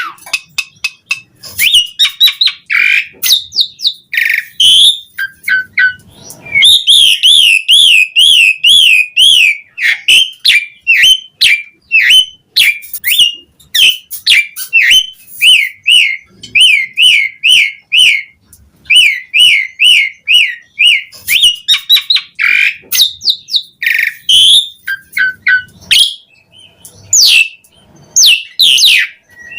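Asian pied starling (jalak suren) singing non-stop: a dense, varied stream of sharp chirps, clear whistles and fast warbling trills that waver quickly up and down, broken only by a few short pauses.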